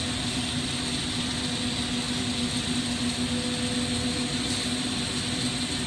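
Steady roar of a glassblowing shop, led by the running lampworking torch flame, with a constant low hum beneath it.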